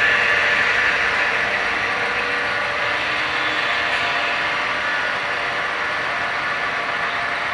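Model freight train led by GP7 and GP9 diesel locomotives running along the layout track: a steady mechanical running sound with several held tones, easing slightly after the first second.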